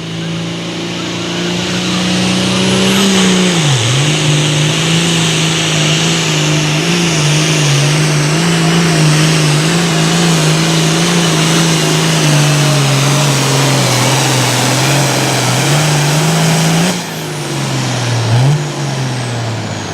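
A Super Farm class pulling tractor's turbocharged diesel engine running hard at high revs under load, its pitch wavering and dipping sharply once a few seconds in. Near the end the engine note drops away as the throttle comes off.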